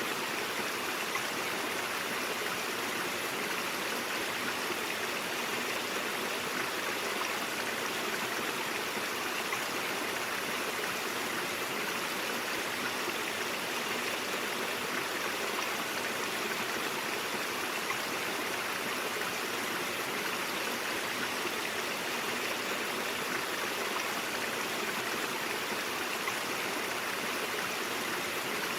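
A stream of water running over rocks, a steady rushing and gurgling flow.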